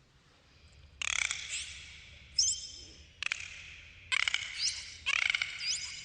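Dolphins calling: a series of pulsed squawks and clicks with short rising whistles, about five calls in quick succession after a brief quiet start.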